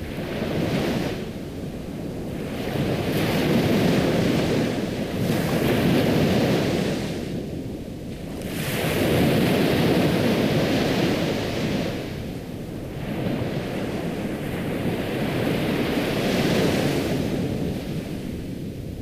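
Ocean surf washing in, a rushing noise that swells and falls away in slow waves every few seconds.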